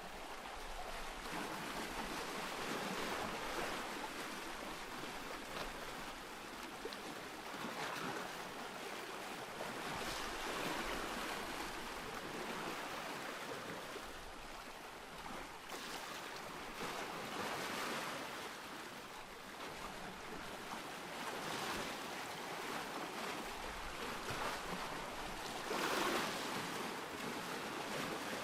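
Ocean surf: waves breaking and washing in, swelling and easing every few seconds, with the biggest wave near the end.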